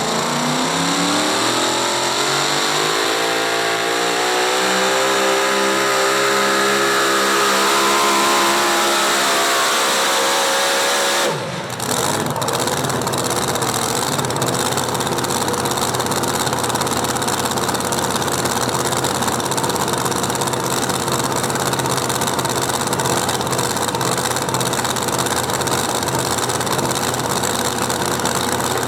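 Pulling truck's engine at full throttle during a pull, its pitch climbing over the first several seconds and then holding high. About eleven and a half seconds in the throttle shuts off abruptly, and the engine then runs on steadily at lower revs.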